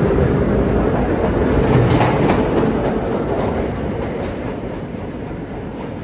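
Vintage New York City subway train of 1930s-era R1–R9 cars running on the tracks: a steady rumble with a few sharp wheel clicks about two seconds in, growing fainter through the second half as the train moves away.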